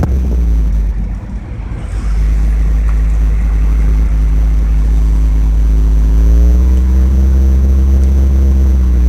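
A vehicle engine running under heavy low rumble, its pitch rising a little about six seconds in and then holding steady.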